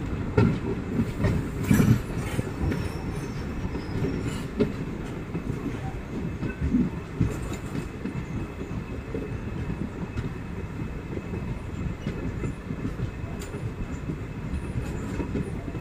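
Express train coaches running along a station platform, heard from the open coach door: a steady rumble of wheels on the rails with some clickety-clack, and a few louder knocks in the first two seconds.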